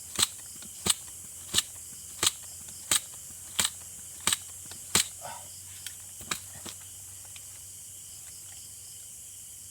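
Pneumatic pump air rifle being pumped: about eight even stroke clicks, one every two-thirds of a second, stopping about five seconds in, followed by a couple of softer clicks. A steady hum of night insects sits underneath.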